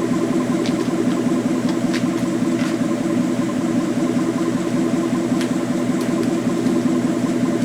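A 2019 Ford Mustang GT's 5.0-litre V8 idling steadily through a freshly installed AWE Touring aftermarket exhaust, settled down to its normal warm idle speed.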